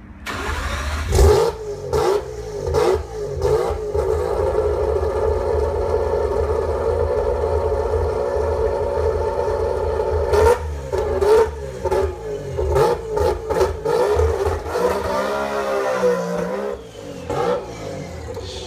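Big-turbo 20B three-rotor rotary engine in a Mazda RX-7 FD, revved in sharp blips and held at a steady high rev on the two-step launch limiter, with repeated loud cracks and bangs. Near the end the engine note sweeps in pitch as the car takes off, then drops away.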